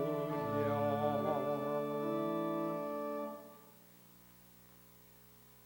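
Congregation and church organ holding the final chord of a hymn's closing 'Hallelujah'. The voices fade first while the organ sustains the chord, which then stops about three and a half seconds in, leaving a faint room hum.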